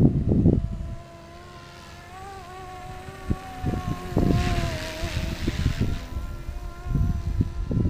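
Radio-controlled scale helicopter in flight: a steady whine from the motor and rotors, its pitch wavering slightly, with a hiss swelling about four seconds in. Wind buffets the microphone in gusts at the start, midway and near the end.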